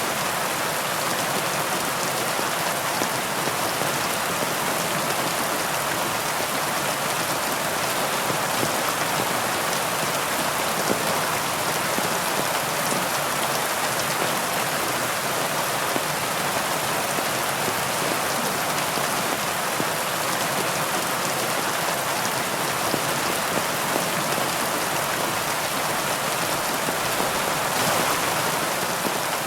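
Steady heavy rain falling on a surface, a dense even hiss with fine individual drop patter throughout.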